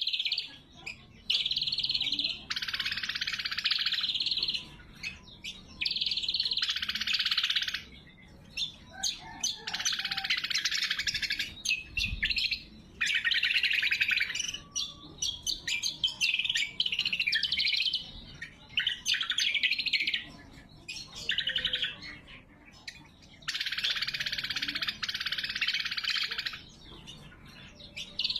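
Greater green leafbird (cucak kombo) singing: loud, rapid trilled phrases of one to two seconds each, repeated with short pauses, with scattered short chirps in between.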